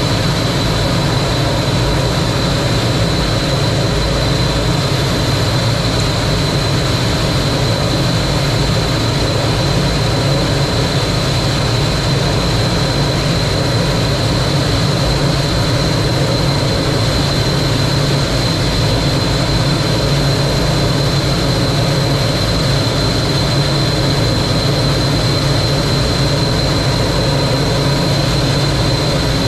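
T-33 jet trainer's jet engine running steadily: a constant loud rush of noise with a steady high whine on top, unchanging throughout.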